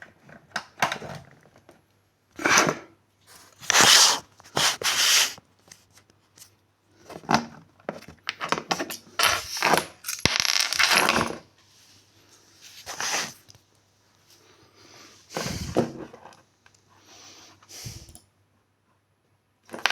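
Objects being handled, rubbed and scraped against each other and a hard surface: a string of rustles and scrapes, some lasting a second or two, with short quiet gaps.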